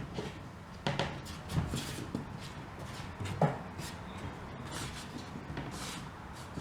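A handful of short, irregular knocks and light clatter from wooden parts being handled in a workshop, with the sharpest knock about three and a half seconds in.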